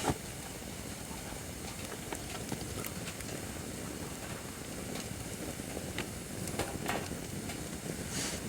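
Acacia firewood burning in a fire pit: a steady hiss and crackle with scattered sharp pops and snaps, the loudest pop right at the start.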